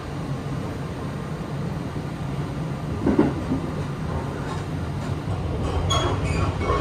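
Running noise of the Sunrise Express sleeper train heard from inside the car: a steady low rumble, with one louder thump about three seconds in.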